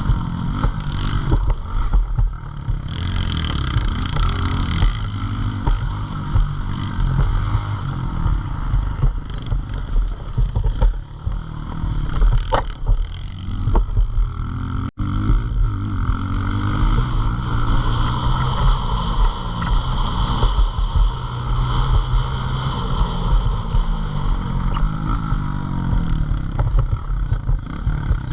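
Pit bike engine running, its speed rising and falling as it revs. The sound cuts out for an instant about halfway through.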